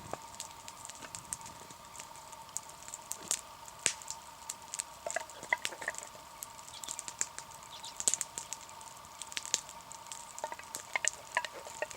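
Campfire crackling, with irregular sharp pops and snaps, over a faint steady high hum.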